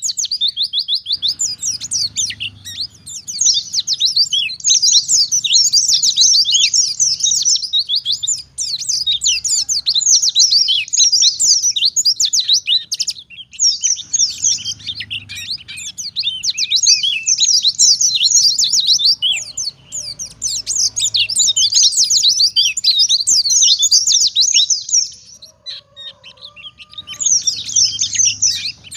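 White-eye (pleci) singing a continuous run of fast, high, twittering trills, breaking off briefly near the middle and again a few seconds before the end.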